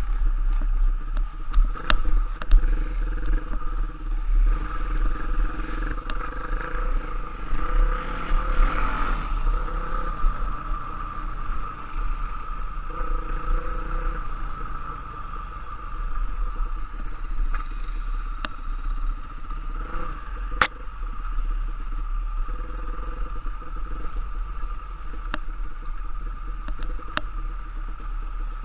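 Trail motorcycle engine running while riding, over a strong continuous low rumble, with a few sharp knocks, one of them about two-thirds of the way through.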